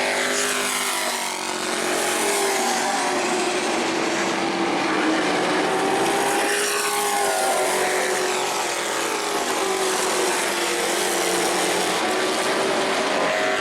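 Pro Truck race trucks' engines running at full speed on a short asphalt oval, several at once. Their pitch rises and falls as they go by, with one clear pass about seven seconds in.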